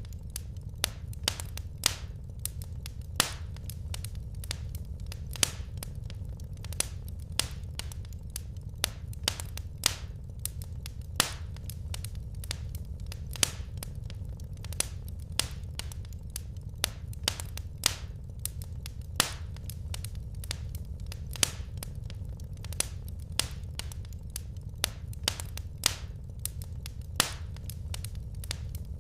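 Wood fire crackling in a fireplace: sharp, irregular pops and snaps from the burning logs, a couple a second, over a low, steady rumble.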